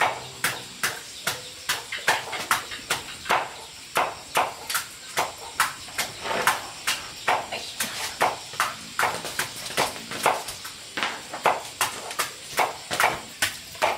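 A steady run of sharp knocks, about two to three a second and uneven in strength, like repeated chopping or striking on a hard surface.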